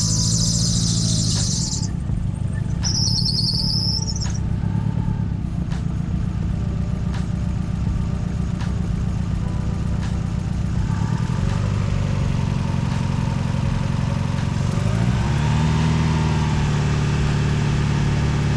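Turbocharged car engine running at idle, misfiring because cylinder 4 is not firing; the engine rises in pitch with a brief rev about 15 seconds in. A shrill high whine is heard in the first few seconds.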